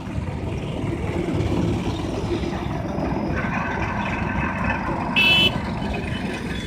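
Road traffic noise with a steady engine and road rumble. A vehicle horn gives a short toot about five seconds in.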